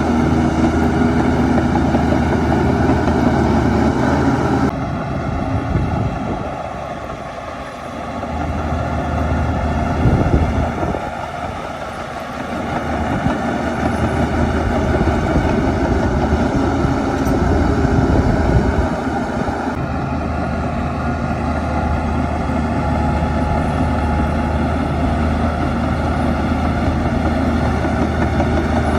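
Heavy diesel engine of a bulldozer running under varying load, its level sagging and swelling for several seconds. The sound changes abruptly twice, about five and twenty seconds in.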